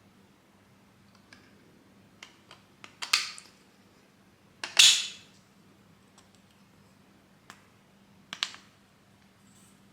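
3D-printed plastic parts clicking and clacking as they are handled and fitted together: a series of sharp clicks, the loudest about five seconds in with a short scrape after it, and another pair near the end.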